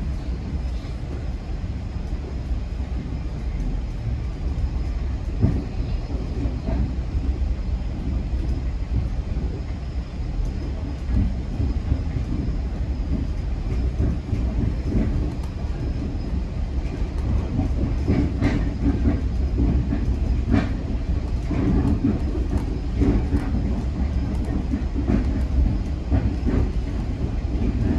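GO Transit Barrie Line train running at speed: a steady low rumble, with scattered clicks and knocks that come more often in the second half.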